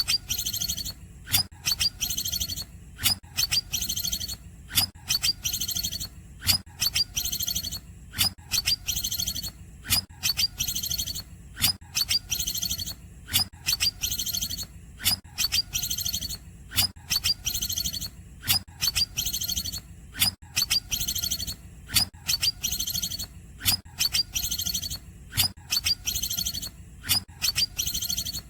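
Green leafbird (cucak ijo) singing its 'cungkokan' song: sharp, high-pitched notes and buzzy trills repeated over and over in a steady, even pattern.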